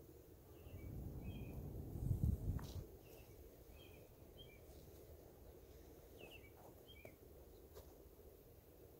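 Small birds chirping in short, scattered notes, with a low rumble that swells about a second in and peaks around two and a half seconds before fading.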